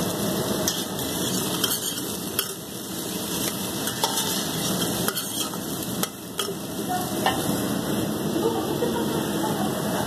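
Diced potatoes and onion frying in oil in a stainless-steel pot: a steady sizzle with a few light clicks.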